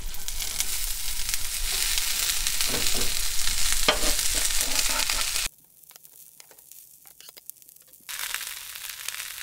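Shredded cabbage and onion sizzling as they hit hot bacon grease in a cast iron skillet, a steady hiss with a few light knocks of the cutting board and utensil against the pan. The sizzle cuts off abruptly about five and a half seconds in and returns, quieter, near the end.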